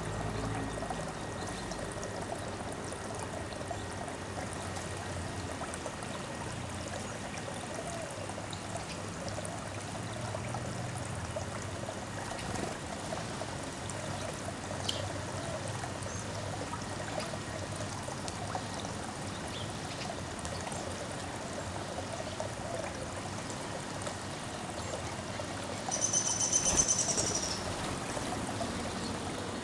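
Steady trickling of running water. Near the end comes a short, high-pitched bird call, the loudest sound here.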